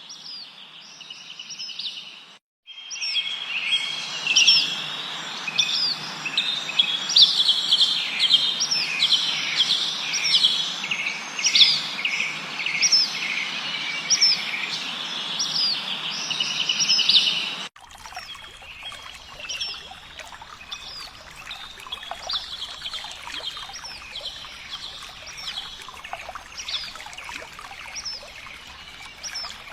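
Many small birds chirping and twittering, with short repeated calls, over a steady hiss. The recording changes abruptly twice, near the start and at about eighteen seconds in, and the chirping is fainter after the second change.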